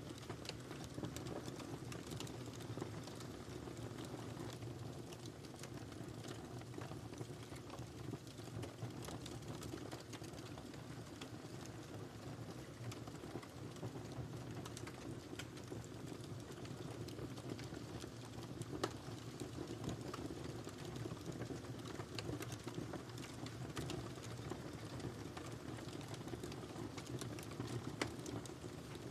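Wood fire burning in a fireplace: a steady low rumble of flames with frequent small crackles and pops, a few sharper pops standing out, one near the end.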